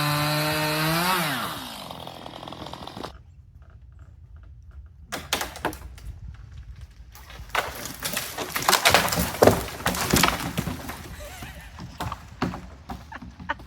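Chainsaw engine running steadily, rising briefly in pitch and dying away within the first few seconds. A felled tree then cracks and crashes down, with a long run of snapping and breaking wood that is loudest in the middle.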